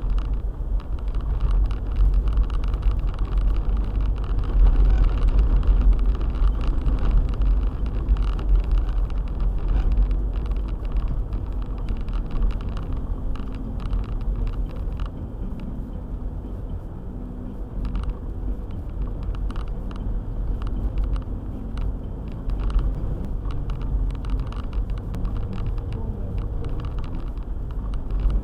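Car driving: a steady low rumble of engine and road noise, with frequent small clicks and knocks throughout.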